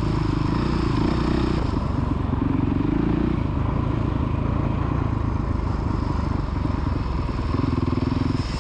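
Small motocross bike engine running steadily, its revs rising and dropping a few times.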